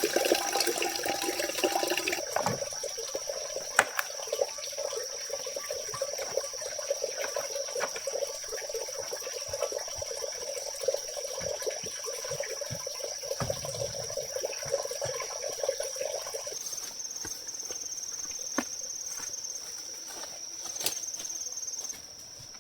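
Running or splashing water, loudest for the first couple of seconds and fading out after about sixteen seconds, under a steady high-pitched insect drone.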